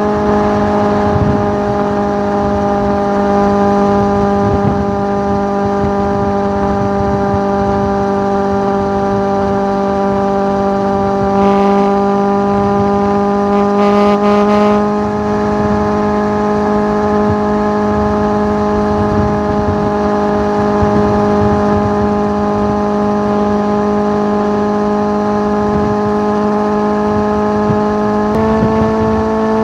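Suzuki GSX650F inline-four engine running through an aftermarket Tiger exhaust at steady revs, its pitch sagging slightly over time, then stepping up sharply near the end.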